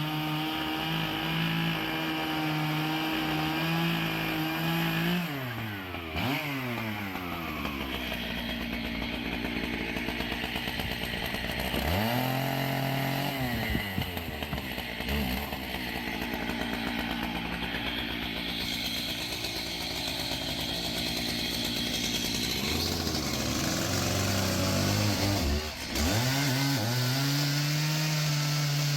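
Band sawmill's engine running while the blade makes edging cuts along a Bastogne walnut log. The engine's pitch drops and climbs back several times.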